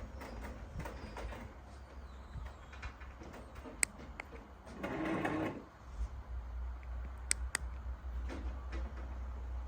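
An electric motor mechanism whirring steadily, with a few sharp clicks and a short louder rush about halfway through.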